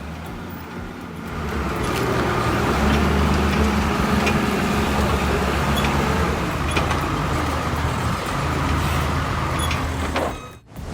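Sawmill air compressor running with a deep, steady drone, with a few light clicks over it. The sound drops away briefly near the end.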